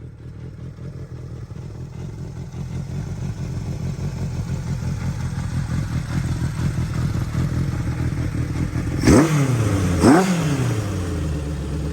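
Honda CB750F's four-cylinder engine idling steadily, then revved twice in quick succession about nine and ten seconds in, the pitch rising and falling back each time before settling to idle again.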